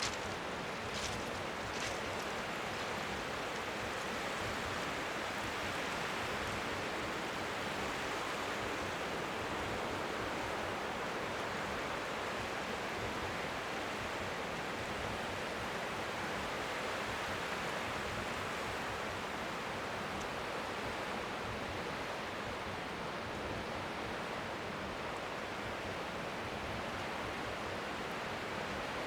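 Steady rush of strong wind on the microphone, an even white-noise hiss, with faint waves lapping at the shore beneath it. A couple of light ticks sound about one and two seconds in.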